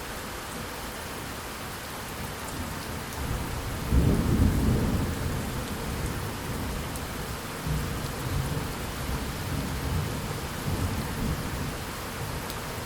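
Steady rain with a roll of thunder that builds from about three seconds in, cracks loudest about a second later, then rumbles on unevenly for several seconds before fading back to the rain.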